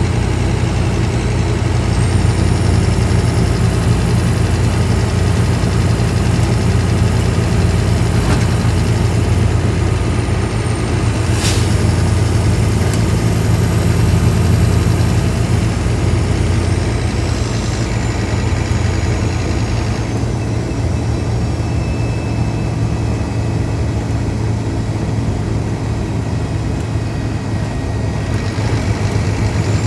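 Scania K310IB bus's diesel engine running steadily, with a thin high whistle that rises, dips and falls away, and one sharp click about eleven seconds in.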